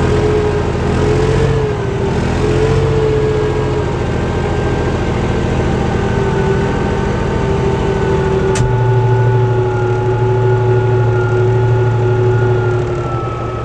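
Tractor diesel engine running steadily while pulling a four-furrow plough, with a whine that slowly drifts in pitch. There is a single sharp click about eight and a half seconds in, after which the low engine tone changes.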